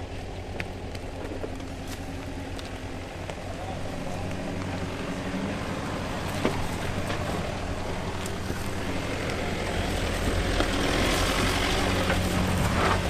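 4WD engine working in first gear low range under load as the vehicle climbs onto recovery tracks, getting louder as it goes, with a rising hiss in the last few seconds.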